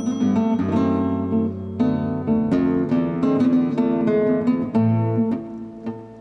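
Background music played on acoustic guitar, plucked and strummed chords, fading away near the end.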